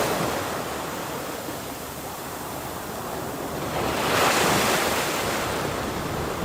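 Ocean waves crashing: one wave's wash fades away over the first couple of seconds, then another breaks about four seconds in and washes out.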